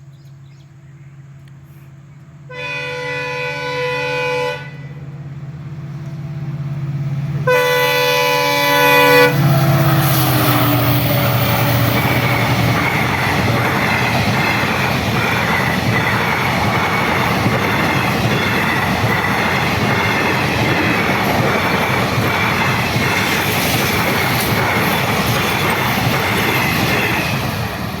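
Diesel locomotive engine drone as an express train approaches, with two long blasts of the locomotive's horn, the second starting about seven seconds in. Then the train passes close by, a loud rumble with the rhythmic clickety-clack of the wheels over the rail joints.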